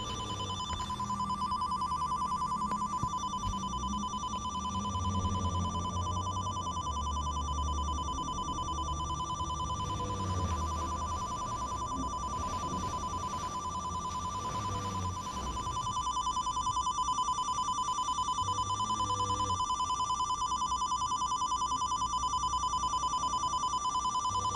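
A continuous shrill electronic ringing tone, rapidly pulsing like a telephone ring, played on and on. It grows slightly louder about two-thirds of the way through.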